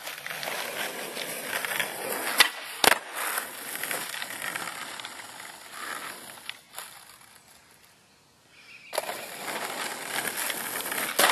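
Skateboard rolling on a driveway with a steady wheel rumble, with sharp clacks of the board about two and a half and three seconds in and again near the end. The rolling fades out about seven seconds in and starts again about nine seconds in.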